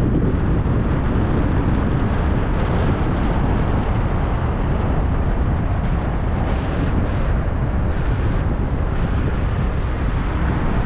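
Steady wind and road noise from a moving car, with wind rumbling on the microphone.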